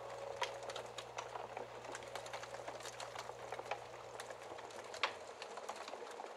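Wood fire crackling: a steady scatter of small, irregular pops and ticks, with one sharper snap about five seconds in.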